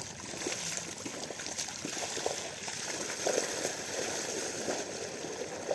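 Water running steadily in a constant rushing flow, as from a diesel irrigation pump's outlet pipe into a field channel.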